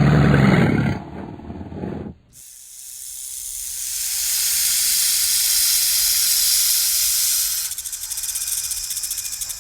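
A large animal's roar ends abruptly about two seconds in. A snake's loud hiss then swells up and holds steady, turning into a rapid pulsing hiss near the end.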